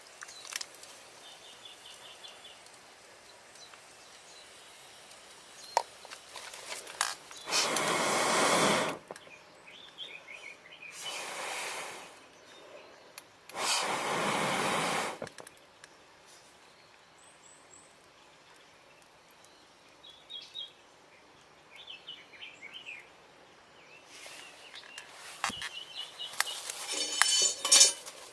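Three long, even rushes of blown air, each about a second and a half, as from someone blowing into a campfire through a fire-blowing pipe. Small birds chirp between them, and light clicks and crackles come near the end.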